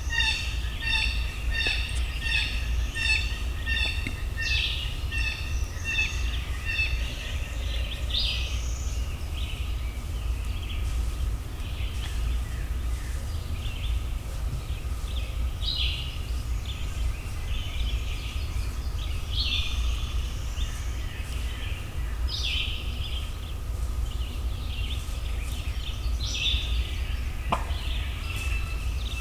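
Wild birds calling in woodland. A fast, evenly repeated series of call notes runs for the first several seconds, followed by scattered short chirps and songs, over a steady low wind rumble.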